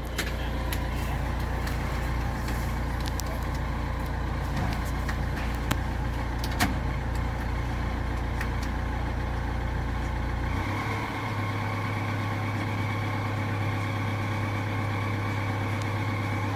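Opel Astra 1.9 CDTI four-cylinder diesel engine running with a damaged turbocharger. About two-thirds of the way through, the engine note shifts up and a steady high tone joins it. A few sharp clicks are heard in the first half.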